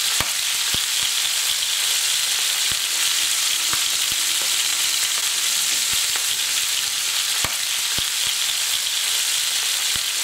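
Sausages and bubble and squeak cakes frying in hot fat in a frying pan: a steady sizzle with scattered spits and crackles.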